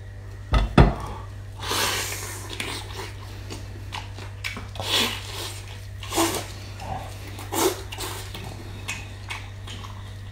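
Close-miked eating: a man tearing and chewing a roasted poultry leg, with irregular wet smacking and chewing noises every second or so. Two sharp low thumps come under a second in, and a steady low hum runs underneath.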